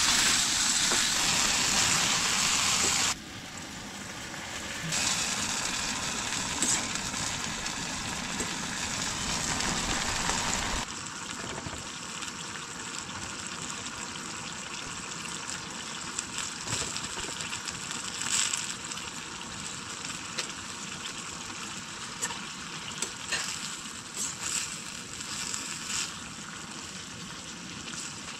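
Tomatoes and vegetables sizzling in oil in a steel frying pan on a gas camping stove. The sizzle is loudest for the first few seconds and drops suddenly about three seconds in, and again about eleven seconds in. After that it is a quieter simmering gravy, with scattered clicks of a spoon against the pan.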